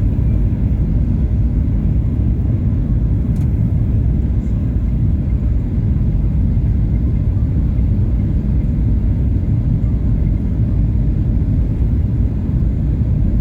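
Cabin noise inside a Boeing 737-800 in flight: a steady, loud low rumble of engine and airflow noise.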